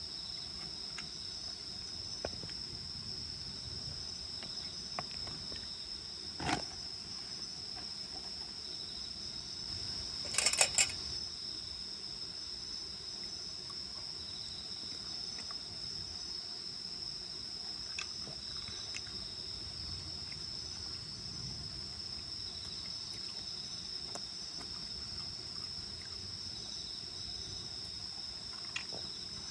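Insects chirring steadily in a high, even drone. A few sharp clicks stand out, with a louder cluster of clicks about ten seconds in.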